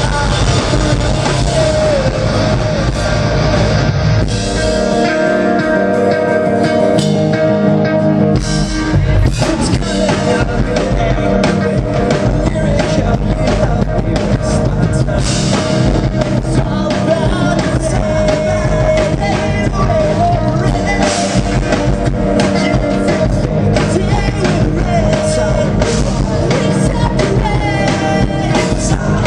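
Live rock band playing with a singer, electric guitars, bass and drum kit. About four seconds in, the drums and bass drop out, leaving guitars ringing, and the full band crashes back in about four seconds later.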